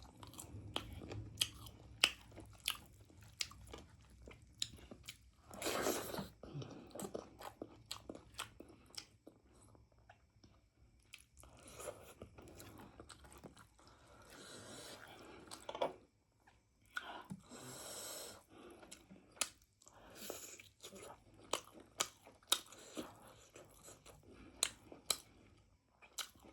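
Close-miked chewing of meat, with many sharp wet mouth clicks and smacks. Two longer hissing noises stand out, one a few seconds in and one past the middle.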